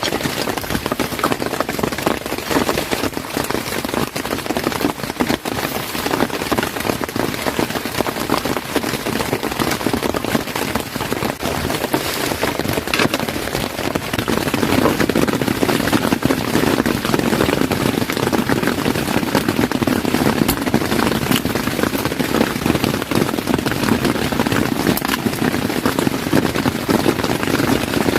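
Heavy rain falling, a dense even hiss of many drop impacts, with a deeper drumming swelling in about halfway through.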